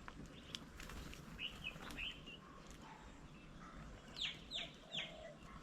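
Birds calling outdoors: scattered short chirps, then three quick, downward-slurred whistled notes about half a second apart near the end.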